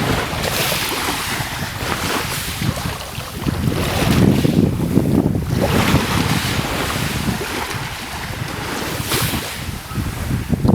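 Wind buffeting the microphone over the sound of sea waves, a low rumble that swells and eases in gusts, with a few brief hissing surges of water.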